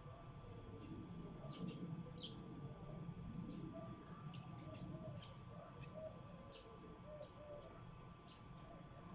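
Sparrows at a feeder giving faint, scattered short chirps over a low background hum and a thin steady tone.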